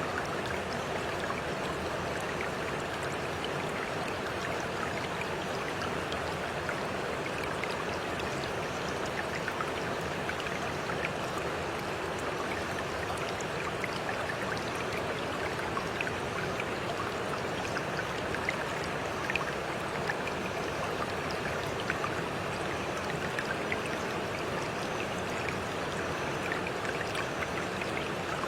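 Steady flowing water: a continuous rush with small splashes and drips scattered through it.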